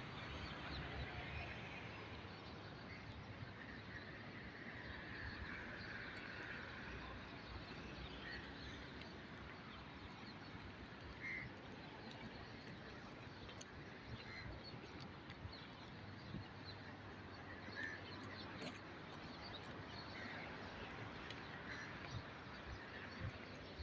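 Faint steady background noise, with short, high chirps every few seconds.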